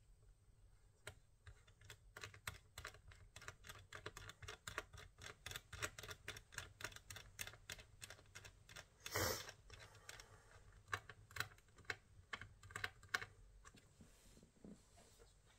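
Typing on a keyboard: fast, uneven runs of key clicks that stop about thirteen seconds in, with a short, louder noise just after nine seconds.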